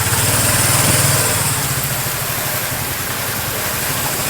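Small boat engine running steadily at an even speed, with a rapid pulse, over a constant hiss.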